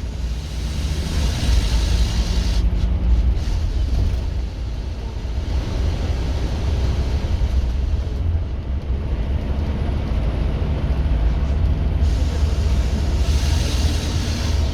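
Scania K230UB OmniLink bus's five-cylinder 9-litre diesel engine running and pulling, with a steady low rumble, and a hiss that rises for a couple of seconds at the start and again near the end.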